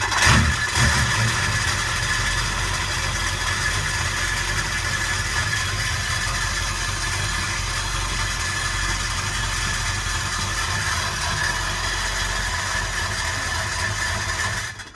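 LB7 Duramax 6.6-litre V8 turbodiesel cranking and catching, then idling steadily before it is shut off abruptly near the end.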